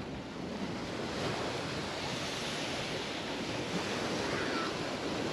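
Mediterranean waves breaking and washing up a beach, a steady surf wash that swells about a second in, with some wind on the microphone.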